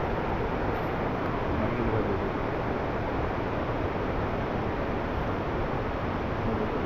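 Steady rushing noise with no separate events, holding the same level throughout.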